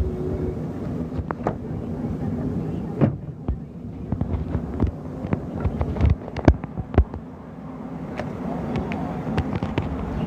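Shop ambience: a steady low hum of the room with faint background voices, broken by a scatter of light clicks and knocks from things being handled, the loudest a few sharp knocks about six to seven seconds in.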